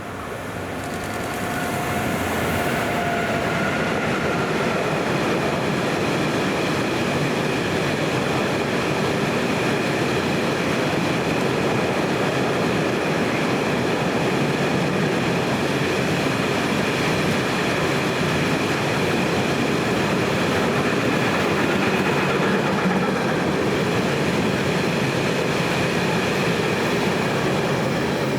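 A train passing close by: the noise builds over the first two seconds, then runs loud and steady, with steady high-pitched tones over the rumble.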